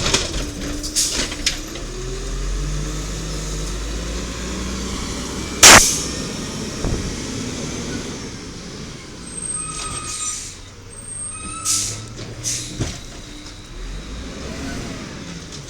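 1993 WhiteGMC diesel garbage truck with an automated side-loader arm at work: engine running with a raised rumble in the first few seconds, then a sharp, loud air-brake hiss about six seconds in. Clanks and a few short high-pitched squeaks follow.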